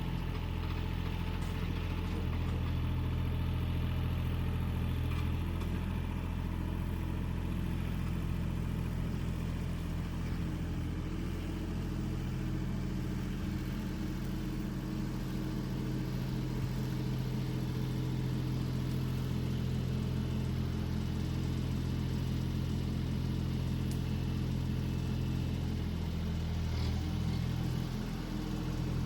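An engine running steadily at a low, even pitch, its note dipping briefly and shifting near the end.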